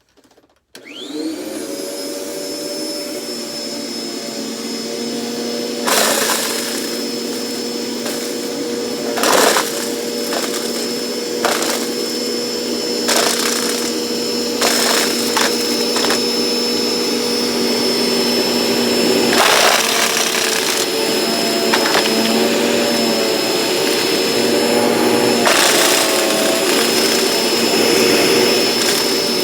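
Dirt Devil Express Vac handheld vacuum switched on, its motor whining up to speed and then running steadily. Over it come a dozen or so sharp clicks and rattles of nuts being sucked up through the nozzle, and the motor's pitch wavers briefly under load.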